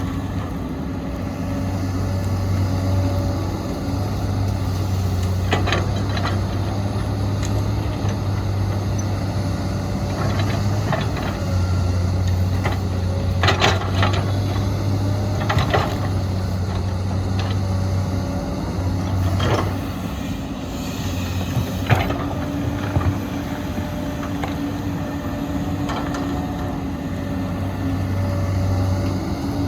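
Heavy diesel engines of an excavator and dump trucks running steadily. Several sharp clanks and knocks come at irregular moments as the machines load soil.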